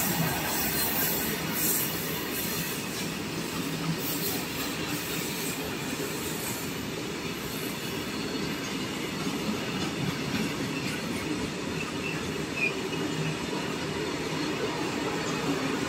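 Loaded open coal wagons of a freight train rolling past on the rails: a steady rumble of steel wheels on track with light clatter. A hissing high end drops away about seven seconds in.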